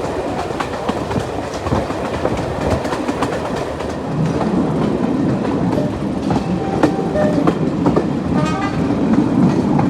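Diesel-hauled train running along the line, wheels clattering over the rail joints, with a couple of brief high squeals in the last few seconds.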